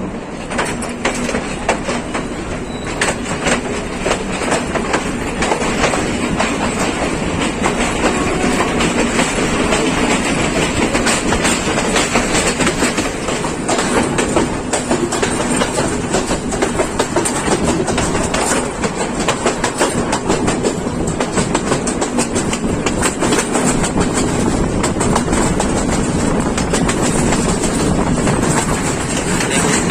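Passenger train running on the track: a steady rumble with continual clattering of the wheels over the rails.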